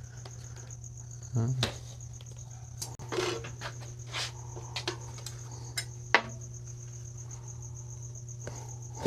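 Scattered knocks and clinks of tools and gear being handled in a workshop, over a steady low hum and a steady high-pitched tone.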